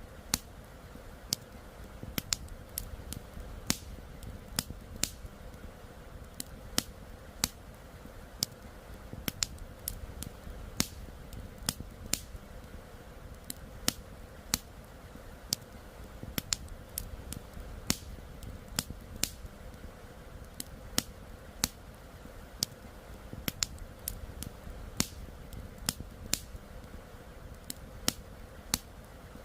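Wood campfire crackling, with sharp irregular pops about once or twice a second over a low, steady rumble.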